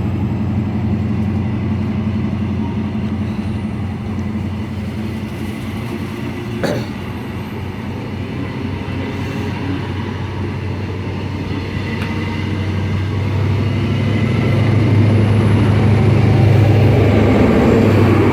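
Class 43 HST power car's MTU diesel engine running as the train departs: a steady low drone that grows louder over the last few seconds. One sharp knock sounds about seven seconds in.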